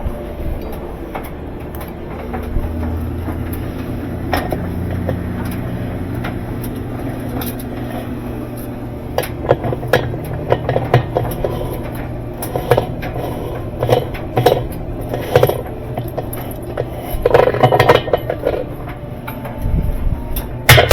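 Metal parts and hand tools clinking and knocking at irregular moments, more often in the second half, over a steady low hum.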